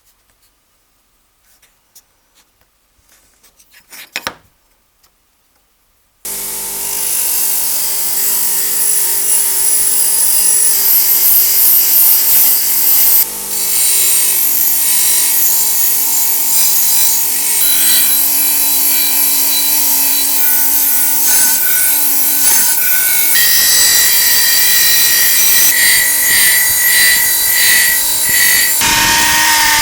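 Belt sander with a 120-grit belt switching on about six seconds in and running steadily, a cast-iron plane part held against the belt, its tone shifting a few times as the work is pressed and moved. Before it starts there are only a few faint clicks and a short handling rattle.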